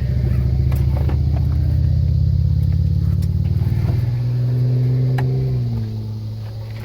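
A car engine running close by with a low, steady hum that steps down in pitch twice, about four seconds in and again near the end, and gets quieter after the second drop.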